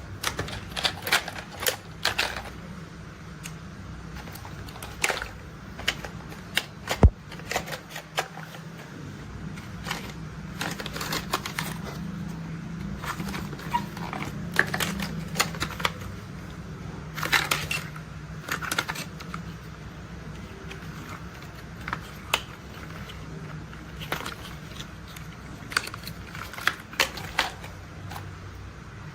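Toy construction vehicles being tapped and handled: irregular sharp plastic clicks and taps, sometimes in quick clusters, over a low steady hum.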